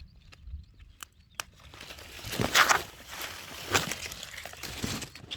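Strawberry plants being handled while picking: leaves rustling and crinkling in several loud swells, after a few light clicks at the start.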